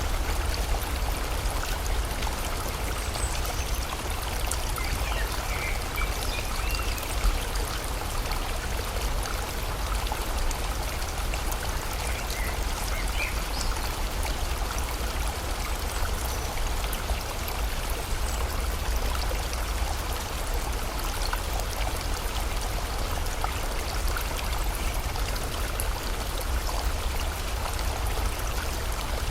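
River water rushing steadily together with falling rain, over a deep low rumble. A few faint bird chirps come through a few seconds in and again near the middle.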